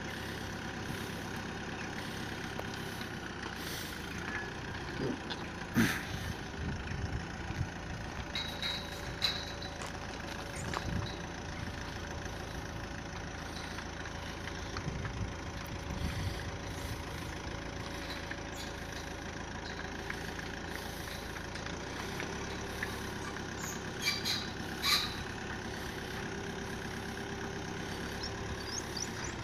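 Vauxhall hatchback's engine running at idle as it slowly reverses a box trailer, with a few scattered sharp clicks and knocks.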